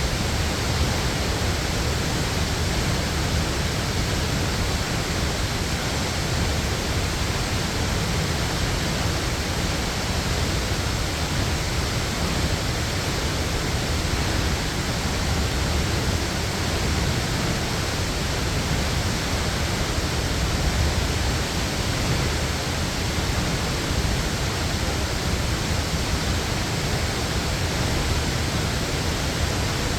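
Waterfall: steady rushing of falling water, heaviest in the low end, with no breaks.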